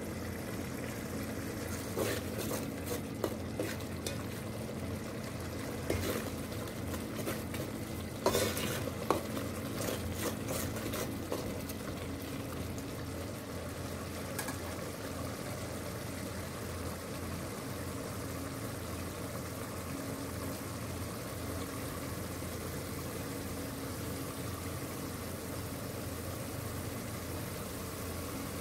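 A steel spoon stirring and scraping an onion-tomato masala in an aluminium pot, with clinks against the pot over the first dozen seconds. After that the masala sizzles and bubbles steadily as it fries.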